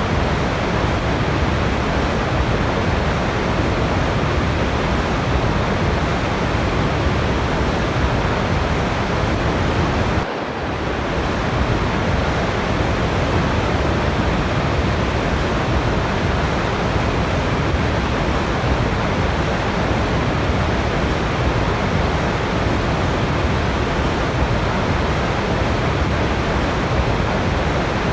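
Waterfall rushing, a steady, even roar of falling water. About ten seconds in it dips briefly and comes back over about a second, like a join in the recording.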